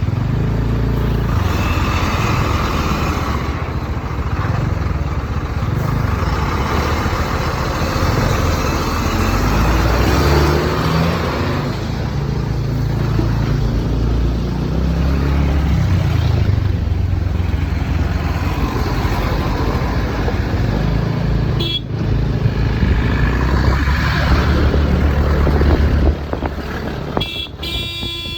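Continuous road noise from a TVS Ntorq scooter on the move: its engine running along with the rumble of riding and other traffic. A vehicle horn sounds near the end, as the overall noise drops a little.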